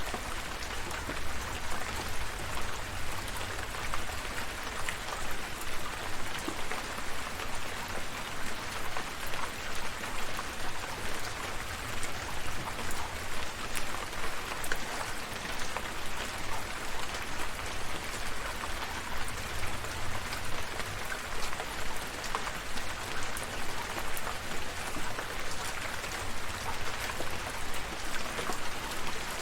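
Steady rain falling, an even hiss with many individual drops pattering on surfaces and a low rumble underneath.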